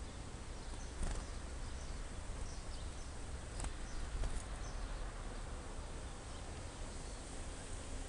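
Faint, short high-pitched chirps from small birds, scattered over a steady low rumble, with two sharp clicks about one second and three and a half seconds in.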